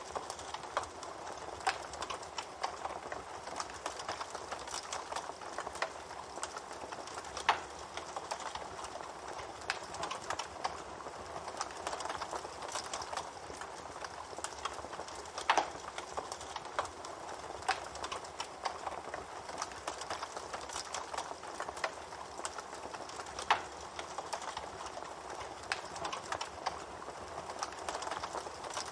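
Campfire burning, a steady hiss full of small crackles, with a louder sharp pop about every eight seconds.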